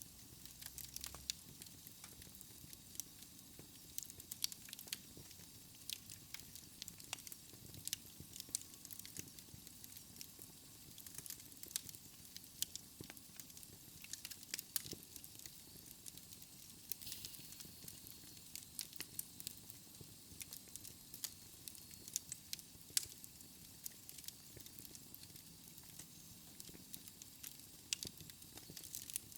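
Wood fire burning in a fireplace, crackling with many irregular sharp pops and snaps over a soft hiss.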